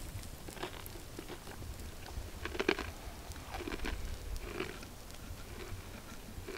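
Chewing a crunchy breaded fried chicken nugget: a series of irregular crunches, the loudest about two and a half seconds in.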